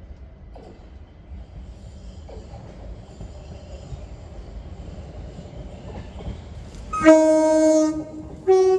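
Southern passenger train sounding its two-tone horn as it passes through: a loud lower note about seven seconds in lasting about a second, then a short higher note near the end, over the low rumble of the train.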